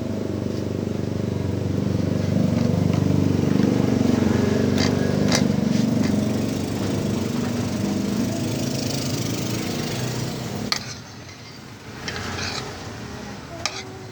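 A small engine running steadily, louder for a few seconds and then easing, with a few light knocks; it cuts off suddenly about eleven seconds in.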